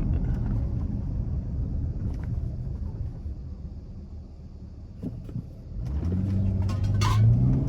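V6 Dodge Charger's engine and road noise heard from inside the cabin, fading away as the car coasts down after reaching 120 mph. About six seconds in, the engine drone rises again as the throttle comes back on. A short clatter follows about a second later, from loose cans in the back.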